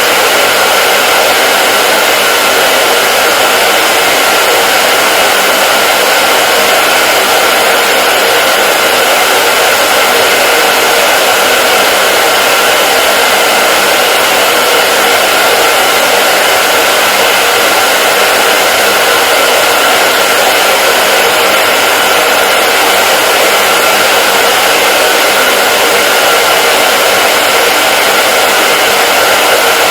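Hair dryer running continuously at a steady speed, an unchanging loud whirring hiss with a faint steady whine in it.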